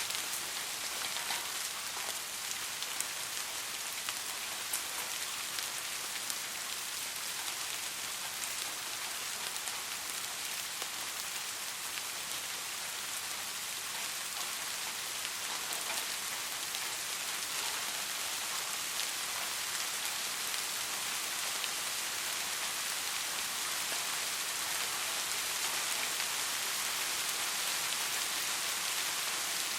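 Soft rain falling steadily on a surface: an even hiss scattered with fine drop ticks, swelling slightly near the end.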